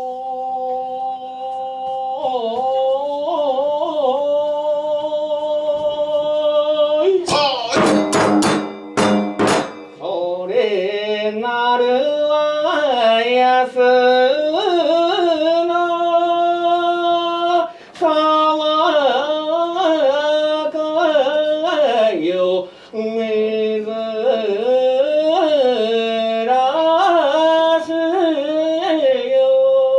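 Kagura music: a long-held, melismatic sung chant with wavering ornaments on sustained notes. A quick cluster of percussion strikes comes about seven to ten seconds in.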